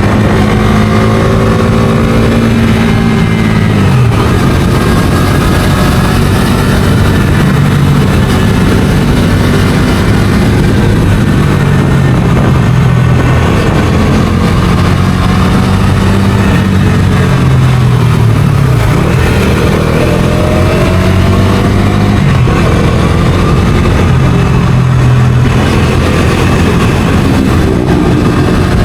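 Bajaj Dominar 250's single-cylinder engine under way, its pitch dropping sharply about four seconds in, then rising and falling several times as the rider accelerates, shifts and backs off, over a steady rush of noise.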